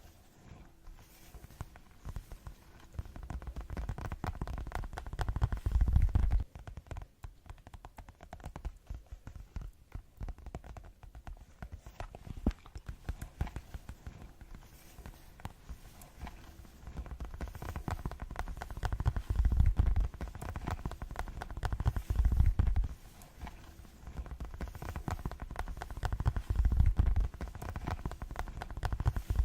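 Fast ASMR tapping, a dense run of rapid taps with no pause. It swells into louder, deeper-sounding stretches about four to six seconds in and several times in the second half.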